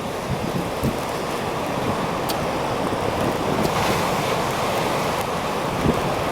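Heavy storm surf rushing and breaking, swelling to a peak about four seconds in, with wind buffeting the microphone.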